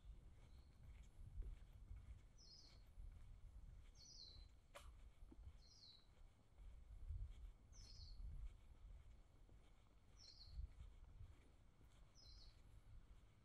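A bird calling, repeating one short falling chirp about every two seconds, six times, over a faint low rumble.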